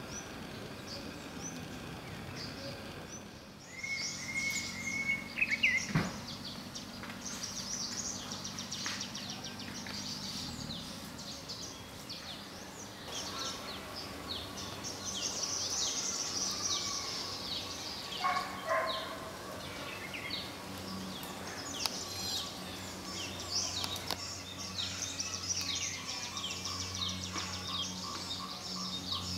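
Birds chirping and singing, many short high calls overlapping, with a held whistled note about four seconds in and a single sharp knock about six seconds in.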